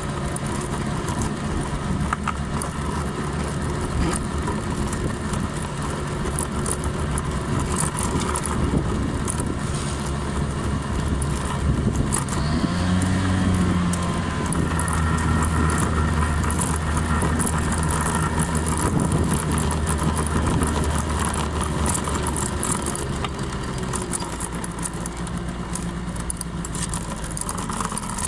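Small Honda 50 cc scooter engine running while ridden, its pitch rising a little about halfway through, holding steady, then easing off near the end.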